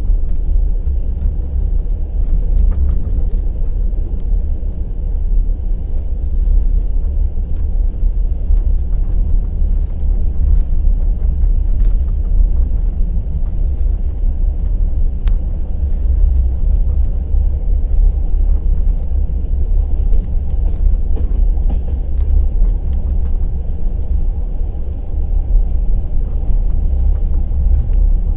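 Passenger express train running along the track: a steady deep rumble of wheels and carriage with scattered sharp clicks and rattles.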